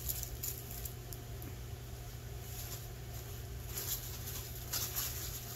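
Close-up eating sounds: a few soft wet mouth clicks and smacks of chewing, over a steady low hum.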